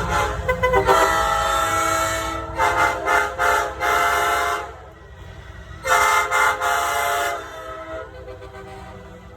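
Multi-chime train-style air horn blown in loud blasts, several notes sounding together: a few short toots, a long blast, a run of quick pulses, then another long blast about six seconds in, fading to fainter toots near the end.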